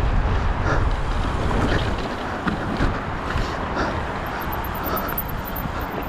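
Mountain bike riding down a dry, loose dirt trail: wind buffets the microphone with a low rumble, heaviest in the first two seconds, over the tyres crunching on dirt and rock, with scattered clicks and knocks from the bike.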